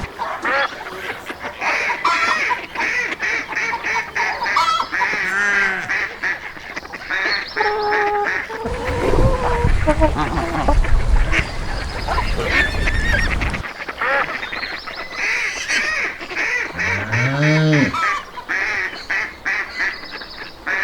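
Geese and ducks honking and quacking in rapid runs of calls. A low rumbling noise comes in for several seconds in the middle, and a couple of lower, rising-and-falling animal calls come near the end.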